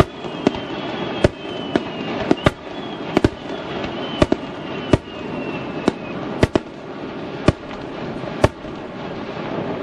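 Fireworks going off: about a dozen sharp bangs at irregular intervals over a steady crackling hiss, with a thin whistle slowly falling in pitch through the first six seconds.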